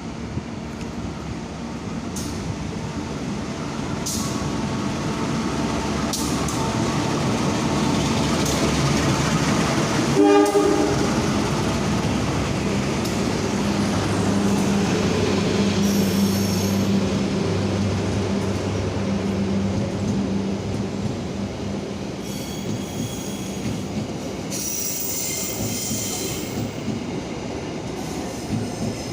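A train running through the station, its noise building over the first ten seconds, with a short horn toot about ten seconds in. Later a steady low hum and high-pitched wheel squeals come through.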